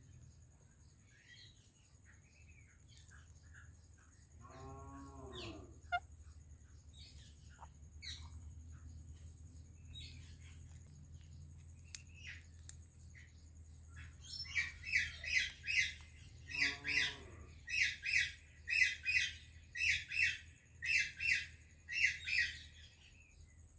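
Pet parrot calling: scattered short chirps, then from a little past halfway a loud run of harsh squawks, about two a second. A lower call with a bending pitch comes twice, once early and once during the run.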